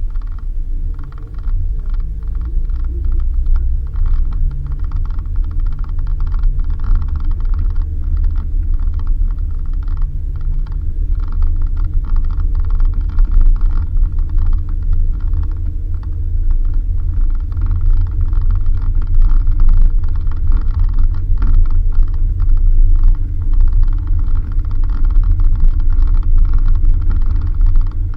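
Suzuki Jimny driving on a dirt road: a steady low engine and road rumble with rapid small rattles and clicks over it.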